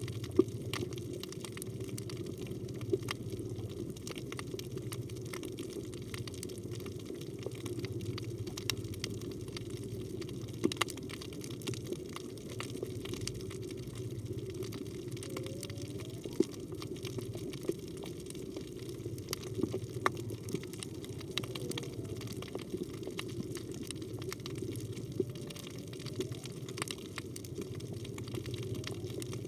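Underwater reef ambience, a steady wash scattered with sharp crackling clicks. Faint moaning calls of a humpback whale glide up and down in pitch now and then through it.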